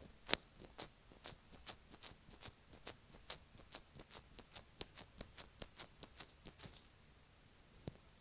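Rapid close-up tapping on an earphone microphone, about four to five quick taps a second, stopping about two-thirds of the way in, with one more tap near the end.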